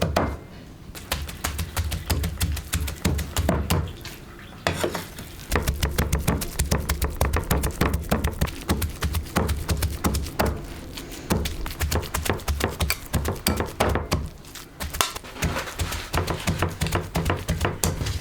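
Rapid, repeated knocking and clatter of kitchen work, with short pauses, over background music.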